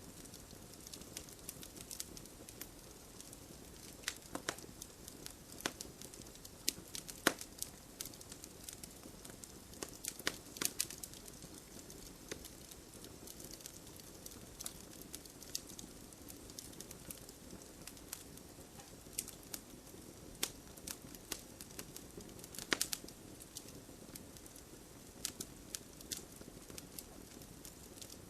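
Campfire burning: a steady low rush of flames with irregular crackles and sharp pops from the burning wood, a few louder snaps here and there.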